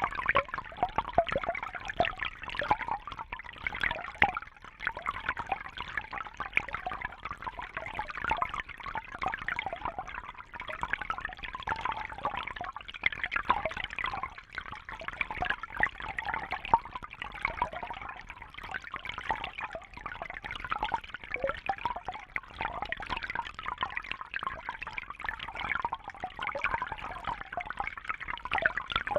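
Aquarium water trickling and splashing steadily, with a dense patter of small drips and bubbles and no pauses.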